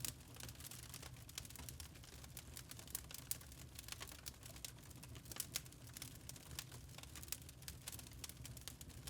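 Wood fire in a fireplace crackling: irregular sharp pops and snaps over a soft low rumble.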